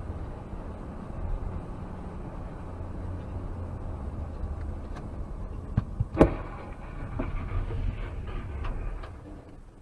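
Car driving with a steady low road rumble, then a collision about six seconds in: a short knock followed by one loud crash, with scattered clattering for a few seconds after.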